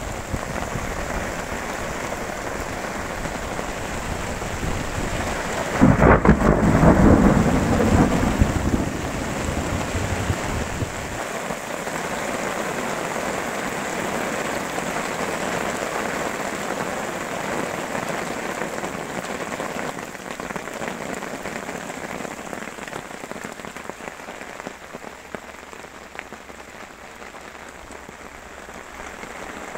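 Heavy rain pouring onto a pond's surface and the bankside grass. About six seconds in, a loud rumble of thunder swells and dies away over a few seconds, and the downpour eases somewhat in the last third.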